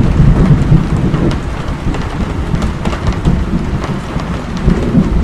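Steady rain with a low rumble of thunder that fades about a second in. Single drops come through the rain as small scattered ticks.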